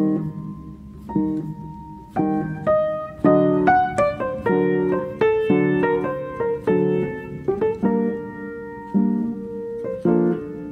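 Background piano music: chords and single notes struck about once a second and left to ring and fade.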